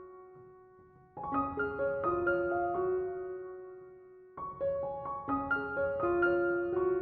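Background piano music: gentle phrases of single notes and chords that ring and fade, with a brief lull about a second in before the next phrase starts.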